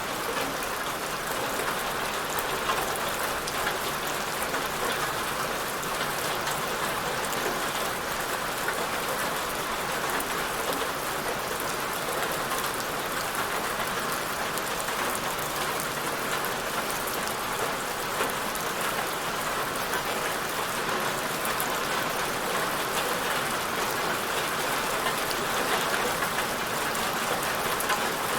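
Steady rainfall, a dense even patter of raindrops hitting a surface.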